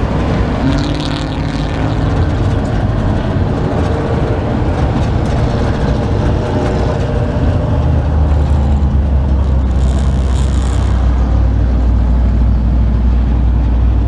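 V8 race car engine heard from inside the cockpit, running at low speed and then idling as the car rolls to a stop. Its low drone grows stronger about eight seconds in, with a brief hiss about ten seconds in.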